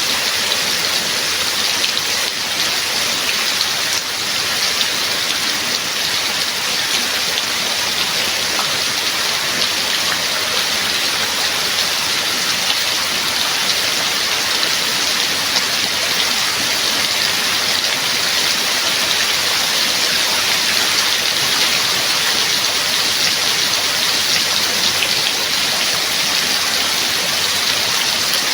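Steady rain with a dense, even patter of drops.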